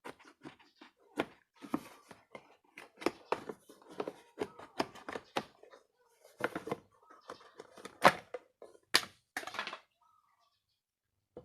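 Irregular knocks and clicks of hand work with small hard parts, coming every fraction of a second for about ten seconds and stopping shortly before the end.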